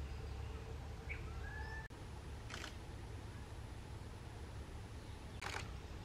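Outdoor ambience with a steady low rumble. A faint bird whistle comes about a second in: a brief rising note, then a short level whistle. Two sharp clicks come later, the second one near the end, and a thin, faint high steady tone runs through the middle.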